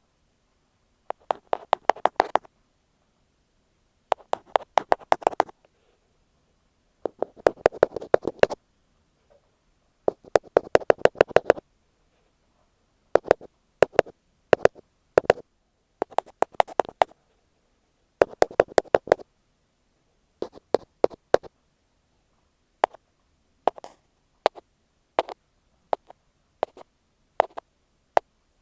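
Tapping on an earphone microphone, ear-cleaning style: quick runs of close, crisp taps lasting about a second each with short pauses between them, thinning to single scattered taps in the last third.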